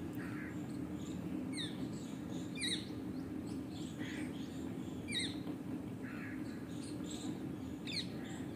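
A few short, high, falling bird chirps, spaced a second or more apart, over a steady low hum.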